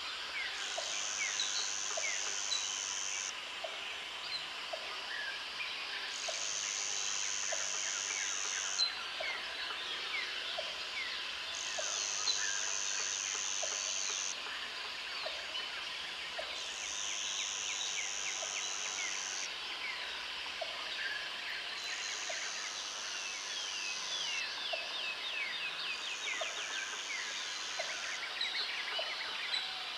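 Jungle ambience: a dense chorus of birds chirping and calling, with an insect buzzing in regular bouts of about two and a half seconds every five seconds, and a short low note repeating about every second and a half.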